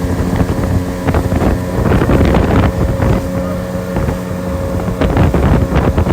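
Motorboat engine running under way, a steady hum under loud wind rushing over the microphone, with scattered knocks and splashes.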